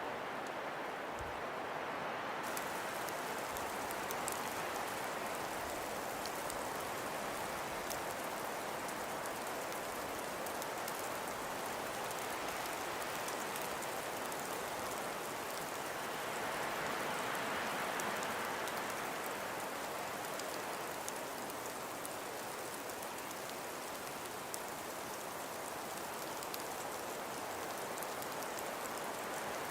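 Snowstorm ambience: steady wind noise with a fine pattering of driven snow. It swells a little a bit past halfway.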